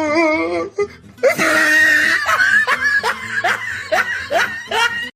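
A person laughing hard: a wavering voice at first, then after about a second a loud run of short, rising laughs, about three a second.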